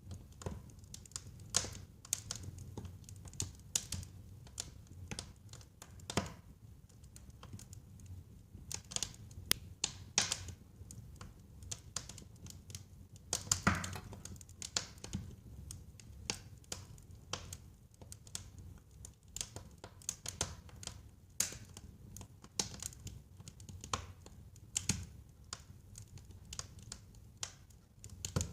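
Wood fire crackling in a fireplace: irregular sharp pops and snaps over a low rumble of the flames, with one louder pop about fourteen seconds in.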